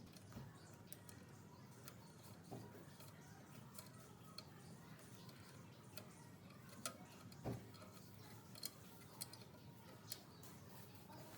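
Faint, irregular light clicks and ticks, one or two a second, over a low steady hum, with a few sharper clicks near the end.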